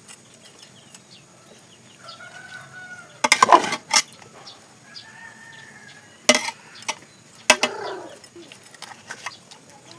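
Chickens calling in drawn-out, arched notes a couple of times. Between the calls come a few loud, sharp knocks and a short scraping clatter.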